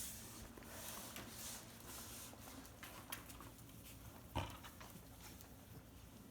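Puppies romping about after a feed: light pattering and scuffling of paws, with one louder bump about four seconds in.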